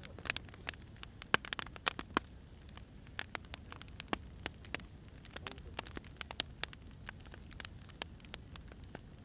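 Firewood burning, crackling with irregular sharp snaps and pops over a low steady rumble. The snaps come thickest in the first couple of seconds.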